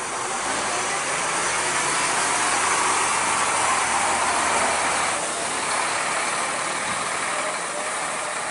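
A truck's engine running with a strong hiss over it. The sound builds in the first second and eases off about five seconds in.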